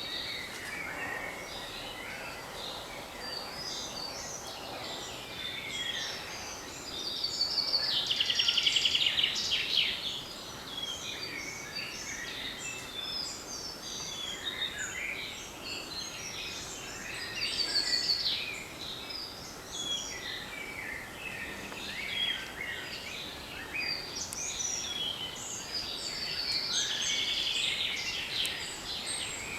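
A spring woodland chorus of many songbirds singing at once, with overlapping chirps and whistles. One louder bird sings a rapid trilled phrase about every nine seconds: near the start of the second quarter, in the middle and near the end.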